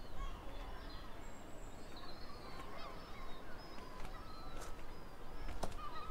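Birds calling, many short overlapping calls, over a low outdoor rumble, with a single sharp click near the end.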